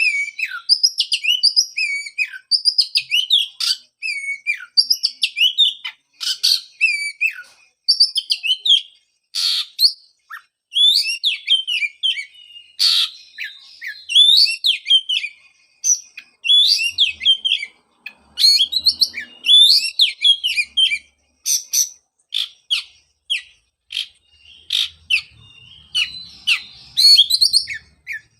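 Oriental magpie-robin (kacer) singing a fast, varied song of whistled notes that slide up and down, mixed with sharp clicking notes, with only short breaks.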